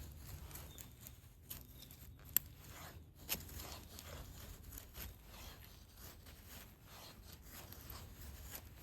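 Irregular rustling and scraping from something being handled, with two sharp clicks about a second apart near the middle.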